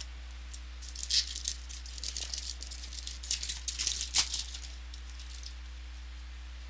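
Football trading cards and their pack handled by hand, a quick run of dry rustling and flicking as cards are slid and flipped through, the sharpest flick about four seconds in, over a steady low hum.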